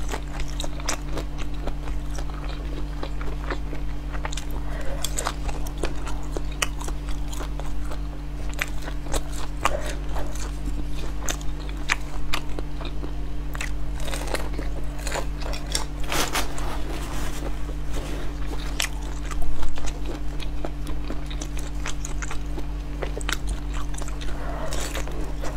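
Close-miked biting and chewing of glazed red sausages: repeated wet bites and mouth clicks over a steady low hum, with one louder burst about twenty seconds in.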